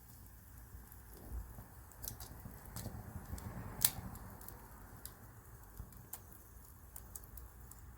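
Wood campfire crackling: scattered sharp pops and snaps at irregular intervals over a low, steady sound of burning, with the loudest snap about four seconds in.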